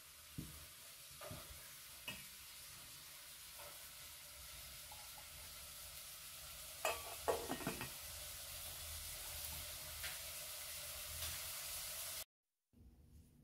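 Whole potatoes frying in oil in a stainless steel pan, a steady sizzle that grows slowly louder. About seven seconds in, a metal lid is set on the pan with a few sharp clinks. The sizzling cuts off suddenly near the end.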